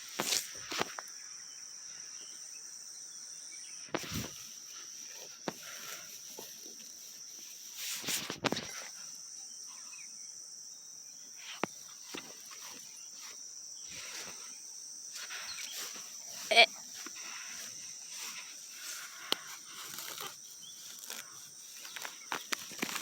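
Crickets chirping steadily in a high, continuous band. Over it come scattered rustling and several short, sharp knocks, the loudest a little past the middle.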